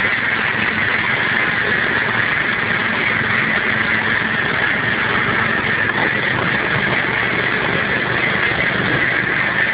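De-restricted ride-on lawn tractor running steadily at full throttle, a constant dense mechanical drone.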